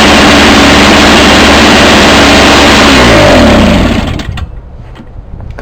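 Toro Powerlite 98cc two-stroke single-stage snowblower engine running steadily and loudly, running well with its carburetor rebuilt. About three seconds in it is shut off, and its pitch falls as it winds down to a stop about a second later.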